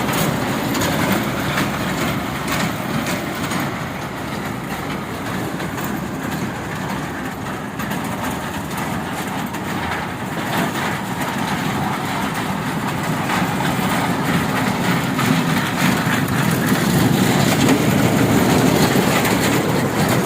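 A train running, a steady rumble and rattle that grows somewhat louder over the last few seconds.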